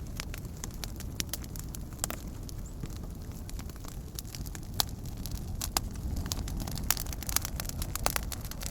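Campfire of burning wood crackling, with a steady low rush of flame under frequent sharp snaps and pops, a few of them louder.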